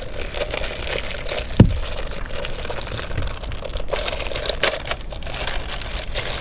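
Crinkling and crumpling of packaging being handled while a presser foot is fitted to a sewing machine, with small clicks and one sharp knock about one and a half seconds in.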